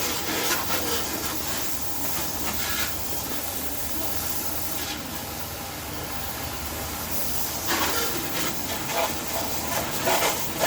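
Water jet spraying with a steady hiss, flaring briefly a few times as the spray shifts across surfaces.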